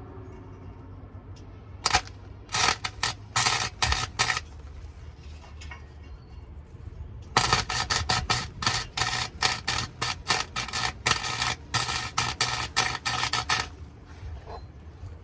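Welding arc crackling in short bursts as an exhaust pipe is stitch-welded: a few bursts about two to four seconds in, then a long run of rapid bursts, several a second, for about six seconds.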